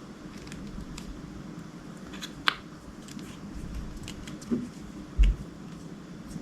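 Slime being handled and worked: scattered small clicks and crackles, a sharper click about two and a half seconds in, and a low thump a little after five seconds.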